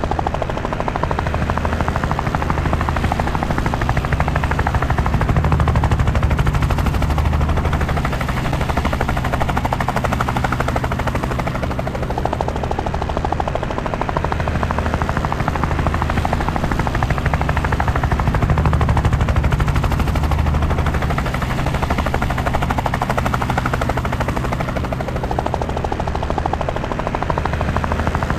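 Helicopter in flight: the fast, steady chop of the rotor blades over a low engine drone, swelling and easing slightly a couple of times.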